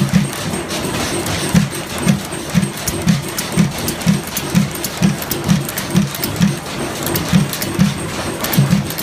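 Antique stationary internal-combustion engine running slowly, with a low, mostly even beat about twice a second and light ticks over it.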